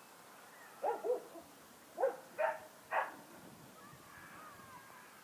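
A dog barking five times in short, sharp barks, coming as two pairs and then a single bark.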